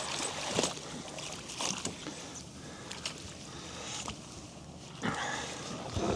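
Water and wind noise around a small boat, with a few short knocks and clicks scattered through.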